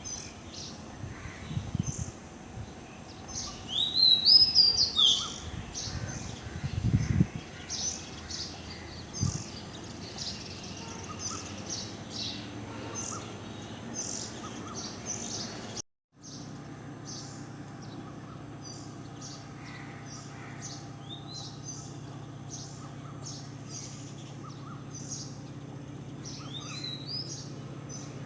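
Wild birds chirping, with many short high calls and a louder warbled phrase about four seconds in and again near the end. The sound cuts out for an instant about halfway, and a steady low hum runs under the birds after it.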